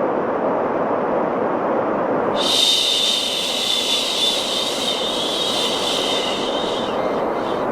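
A steady white noise, with one long human 'shhh' shush laid over it from about two and a half seconds in until shortly before the end.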